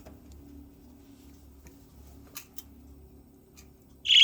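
Budgerigar giving a single short, sharp chirp near the end, after a few faint clicks about halfway through.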